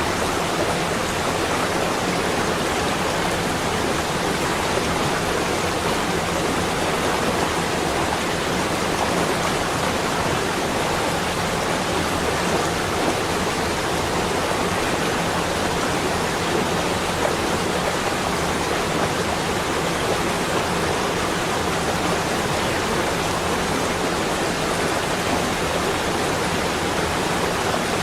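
Steady, unchanging rushing noise spread evenly from low to high pitch, with no separate drops, gusts or other events.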